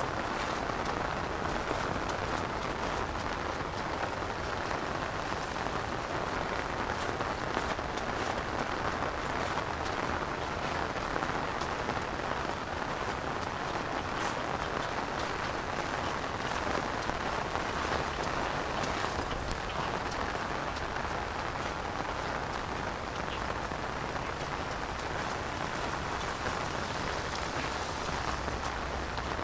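Heavy rain falling steadily on rice paddy fields.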